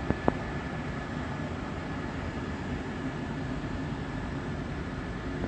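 NMBS double-deck passenger train rolling slowly past: a steady low rumble with a thin, steady high whine, and two sharp clacks of wheels over a rail joint just after the start.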